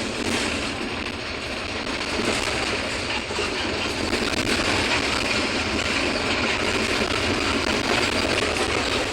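Mercedes-Benz OF-1721 Bluetec 5 city bus running under way, heard from inside: a steady engine drone mixed with rolling road noise.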